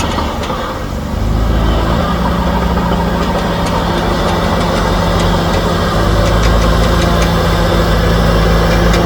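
Heavy diesel engine of earth-moving machinery running steadily, getting louder with more low rumble about a second in.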